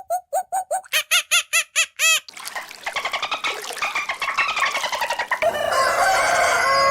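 A horse whinnying in quick pulses until about two seconds in, then a dense chatter of many birds squawking at once, then a cow mooing in one long steady call from about five and a half seconds in.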